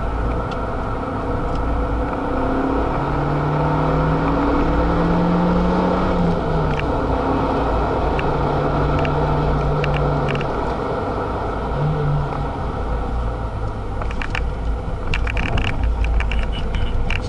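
Renault Mégane RS265's turbocharged 2.0-litre four-cylinder heard from inside the cabin, running under load at track speed with road and wind noise, its pitch rising slowly in the first few seconds. Near the end come a run of clicks and rattles.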